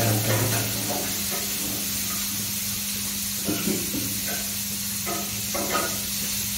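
Food sizzling in a frying pan on a gas stove, with a spatula scraping and stirring in the pan a few times, over a steady low hum.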